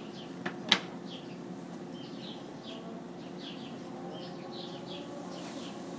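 A mass of honeybees buzzing in a steady hum as a package of bees is dumped into a hive, with a bird chirping repeatedly over it. A single sharp knock sounds less than a second in.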